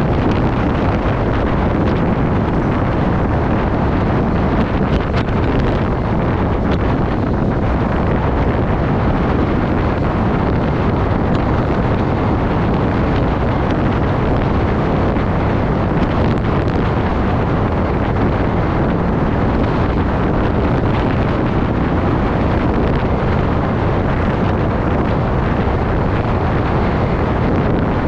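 Steady wind rushing over the microphone while riding, heavy in the low end and unbroken throughout.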